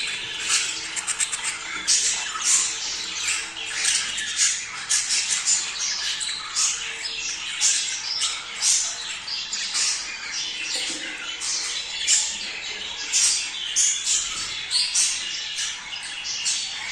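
A flock of budgerigars chattering and squawking without pause, many short high calls overlapping.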